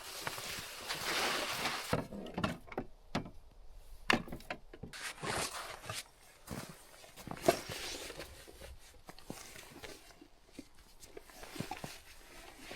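Scattered knocks and clicks with soft rustling between them, the loudest knocks about four seconds in and again about seven and a half seconds in.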